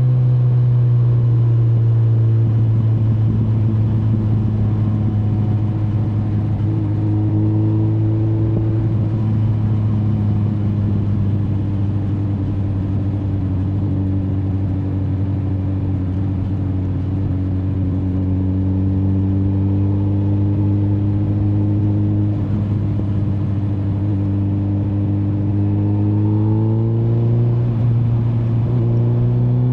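Kawasaki Z900's inline-four engine running under way at part throttle. Its pitch eases down over the first several seconds, holds steady through the middle, then climbs again near the end as the bike accelerates.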